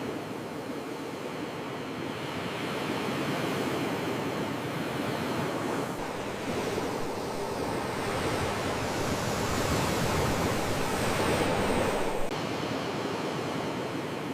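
Sea waves breaking and washing ashore, a continuous surf wash that builds up over several seconds and then drops off suddenly about twelve seconds in.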